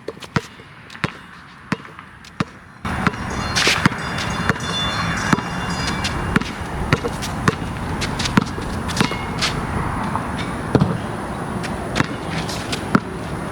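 A basketball being dribbled and bounced on a hard court, sharp irregular bounces. About three seconds in, a loud steady rushing noise suddenly comes in under the bounces.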